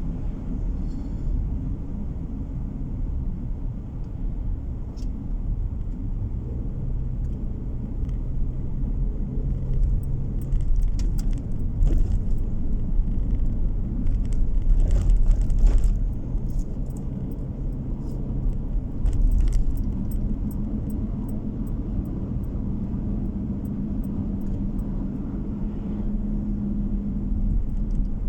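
Road noise inside a moving car: a steady low tyre and engine drone. From about ten seconds in comes a run of small rattling clicks along with louder rumble for several seconds, easing off again after about twenty seconds.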